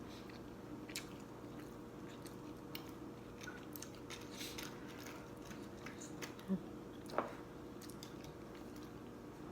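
Close-miked chewing and small wet mouth clicks of a person eating Thai boat noodles, with a couple of sharper mouth sounds about seven seconds in.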